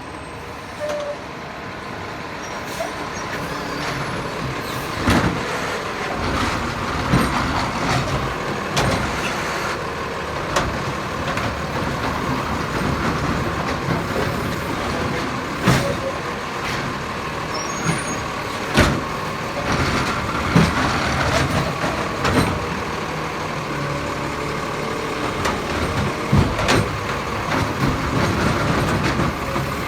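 Diesel McNeilus Zero Radius side-loader garbage truck running, its engine growing louder over the first few seconds, with a steady whine throughout. Repeated sharp bangs and knocks come every few seconds over the engine sound.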